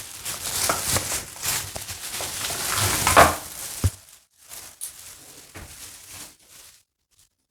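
Packaging rustling and crinkling as a shower filter is unpacked from its box by hand, loudest about three seconds in with a sharp click just before four seconds. Softer rustles follow, then it goes quiet near the end.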